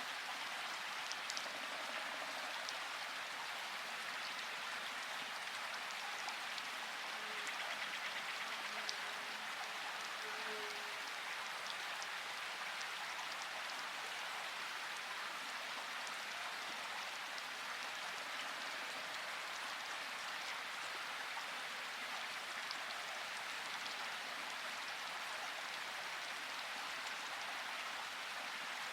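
Steady rain: an even hiss with occasional individual drops ticking.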